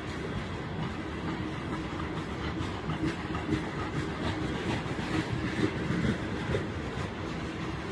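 Heavy freight train's wagons rolling past at steady speed, wheels clicking and knocking over the rail joints in an uneven run over a continuous rumble.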